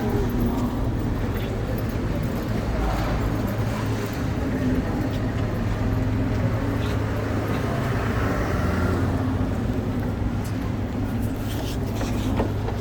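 Motorcycle engine running steadily as the bike rides along, a constant low hum with road noise.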